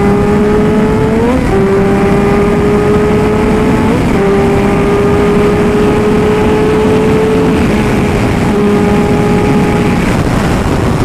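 Suzuki GSX-R600 inline-four running at speed, its pitch slowly climbing as it pulls, with two quick gear changes about a second and four seconds in. Heavy wind rush over the microphone.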